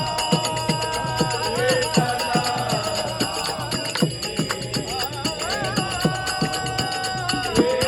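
Marathi devotional bhajan music: a wavering sung melody over steady hand-drum strokes whose bass bends in pitch, with small hand cymbals jingling throughout.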